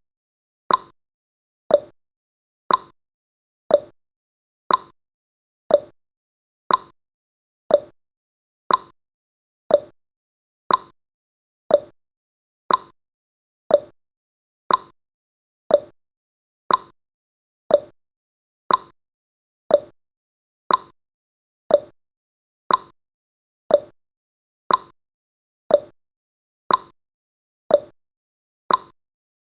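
Countdown timer's ticking sound effect: one short tick each second at a steady pace, alternating between a higher and a lower pitch like a clock's tick-tock.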